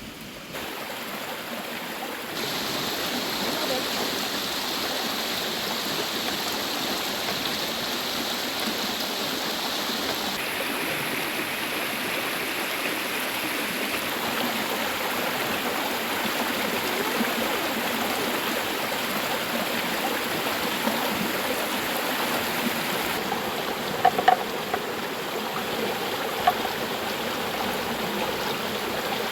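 River water running, a steady rush whose tone changes abruptly a few times. A few short sharp clicks sound near the end.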